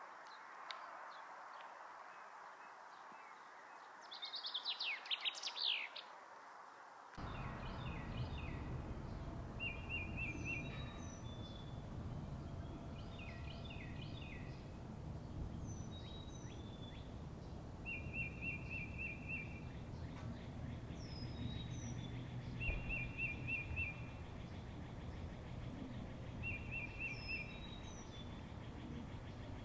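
Songbirds chirping and singing: first a quick cascade of falling high notes, then, after an abrupt switch about seven seconds in to a recording with a steady low rumble behind it, a short trilled phrase repeated every few seconds among scattered high chirps.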